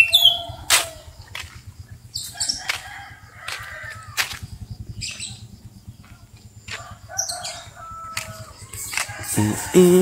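Birds chirping and chickens, with scattered sharp clicks and knocks over a faint low rumble. Near the end a low pitched call starts.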